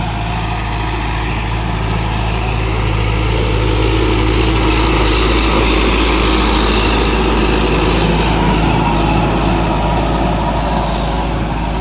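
Sonalika tractor's diesel engine running steadily while ploughing a field, a little louder through the middle.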